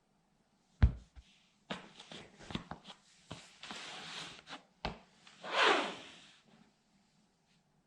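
A plastic toy military truck being crushed under a sandal: a sharp crack about a second in, then a run of cracking and creaking, another knock near five seconds, and a scraping crunch near the end.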